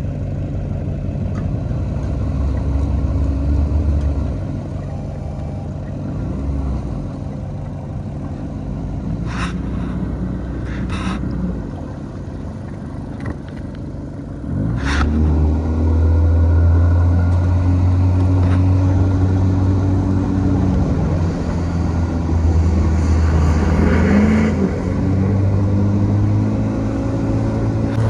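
Boat's outboard motor running in reverse at low throttle, then opened up and louder about halfway through, its pitch rising and falling. A few sharp knocks sound over it.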